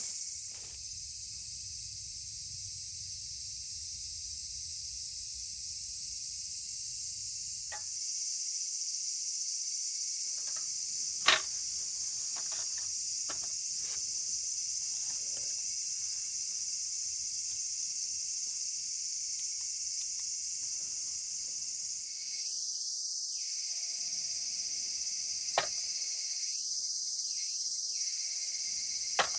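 Steady, high-pitched chorus of night insects such as crickets, with a few sharp pops from burning wood in a campfire: one loud crack about eleven seconds in and two smaller ones near the end.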